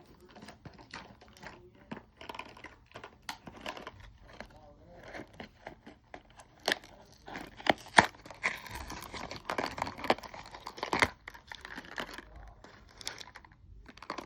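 Toy packaging crinkling and tearing as it is pulled open by hand, with a few sharp snaps among the crackling.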